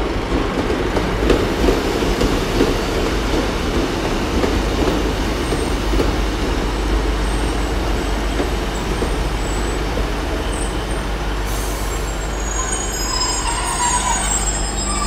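A pair of class 150 Sprinter diesel multiple units runs past along the platform, with a steady rumble of diesel engines and wheels on the rails. A thin high squeal from the wheels or brakes comes in near the end.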